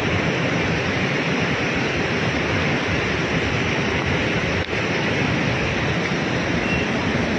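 Steady, loud rushing of the flooded Beas river in spate: a dense, even noise of fast-moving water.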